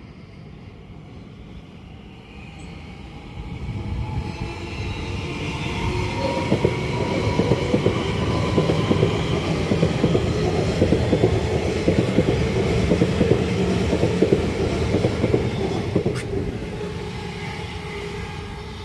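A train passing close by, building up about four seconds in, wheels clattering over the rail joints in a rapid run of clicks, then fading away near the end.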